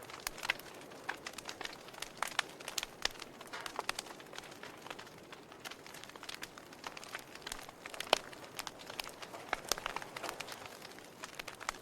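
Wood fire in a fireplace crackling: irregular sharp pops and snaps over a soft hiss, with one louder pop about eight seconds in.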